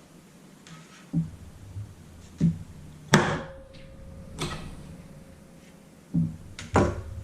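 Kitchen utensil knocking and tapping while a canary melon is being cut and cleaned out: about six irregular knocks, the loudest about three seconds in with a brief ringing tone after it.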